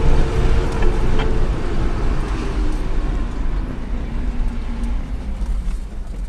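Shuttle vehicle's engine running under way with a loud, steady low rumble of engine and road noise; its humming engine tone drops lower about three seconds in.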